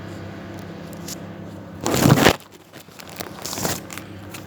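Two short bursts of crinkling, like plastic or paper being handled: a loud one about two seconds in and a weaker one a second and a half later. A low steady hum stops just after the first burst.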